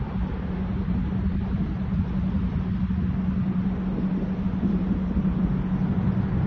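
Boeing 777X's GE9X jet engines during takeoff: a steady, low-pitched noise with a constant hum underneath.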